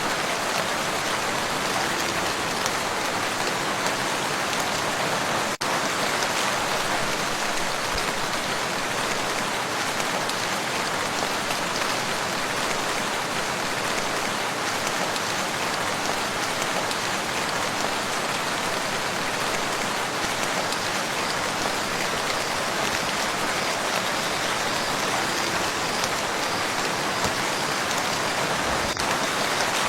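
Steady rain falling on a lake: a dense, even hiss of drops on the water, with a momentary dropout about five and a half seconds in.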